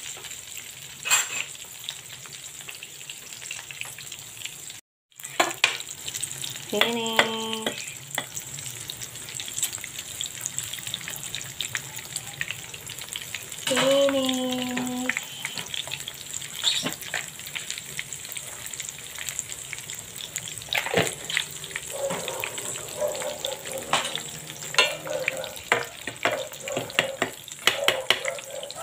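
Hot oil sizzling and crackling in a frying pan as an eggplant omelette (tortang talong) fries. Two brief pitched sounds stand out, about a quarter of the way in and again about halfway.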